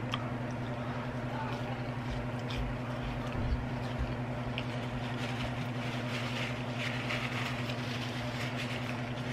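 A steady low hum, with faint chewing and wet mouth sounds as a ketchup-dipped french fry is eaten. A paper napkin rustles against the mouth near the end.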